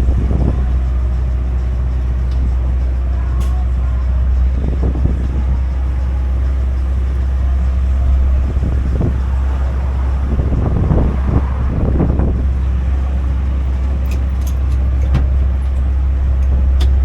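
Steady low rumble of a motor vehicle, with brief faint voices now and then.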